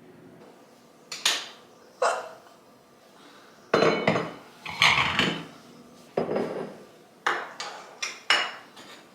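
A run of about ten irregular sharp knocks and clinks of hard objects, each with a short ringing tail, closer together near the end.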